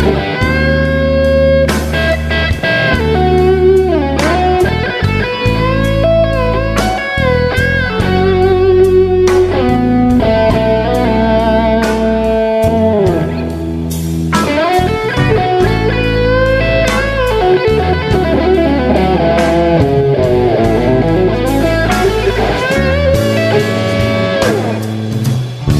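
Overdriven electric guitar playing a slow blues lead: a Gibson Les Paul through a Synergy Syn50 head with an AC-style (Morgan) module and a Sick As OD pedal, with long held notes, string bends and wide vibrato, over low sustained backing tones.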